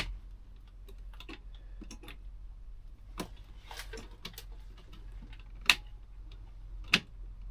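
Irregular sharp clicks and light taps, a few louder ones in the second half, like small hard plastic parts or switches being handled.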